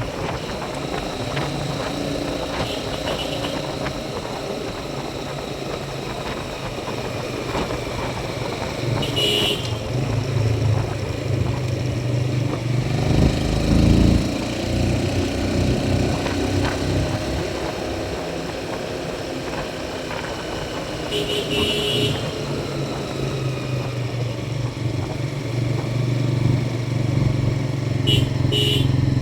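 Motorcycle engine running steadily under way, its pitch shifting with speed, with road and wind noise and a brief louder surge about halfway through. Short high-pitched beeps come three times.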